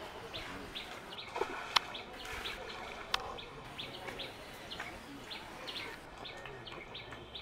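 A bird chirping over and over, short high notes about two or three a second, over the low hum of the pond bank. Two sharp clicks about a second and a half apart stand out as the loudest sounds.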